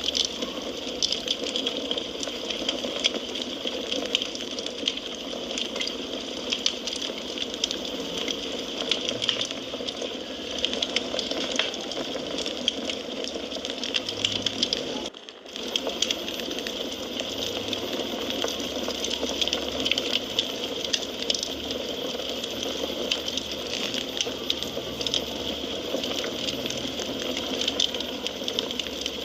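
Wood fire crackling, with a steady hiss under frequent sharp pops and snaps. The sound drops out for a moment about halfway through.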